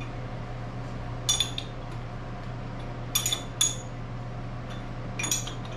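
Steel tools or parts clinking against metal: four sharp, short ringing clinks at uneven intervals, over a steady low hum.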